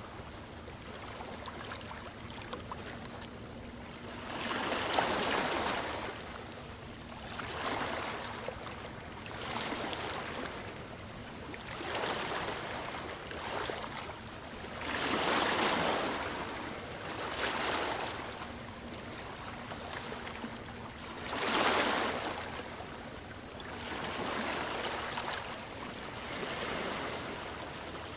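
Small waves breaking and washing up on a shore in a steady series, a rush of water every two to three seconds, with a few swells louder than the rest.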